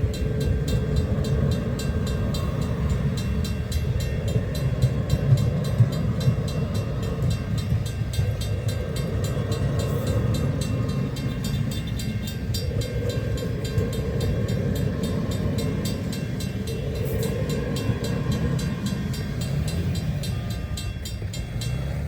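CPKC Holiday Train rolling past close by: a steady rumble of wheels on rail with a fast, even clicking over it. The sound cuts off abruptly at the end.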